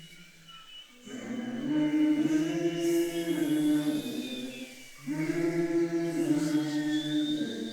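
A choir singing two long, held chant-like phrases in harmony, the first starting about a second in and the second about five seconds in, over a steady low drone.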